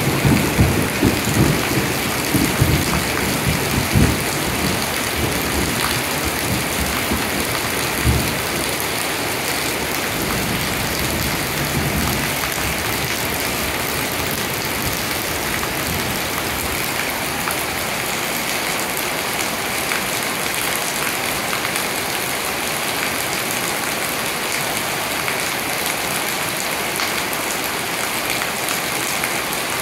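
Heavy rain falling steadily, a dense even hiss, with several low thumps in the first dozen seconds.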